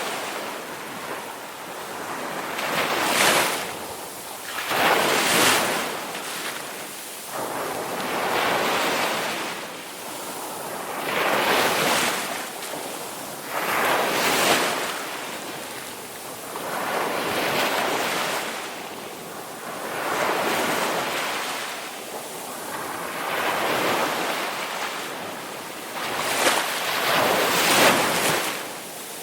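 Ocean waves breaking and washing on a shore, one surge after another every two to three seconds, each swelling and then falling away.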